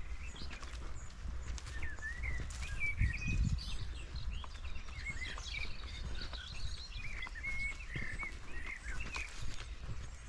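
Small birds calling in a forest, many short high chirps and twitters from several directions, over the low rumble and irregular thuds of footsteps on the forest floor, with a heavier thud about three seconds in.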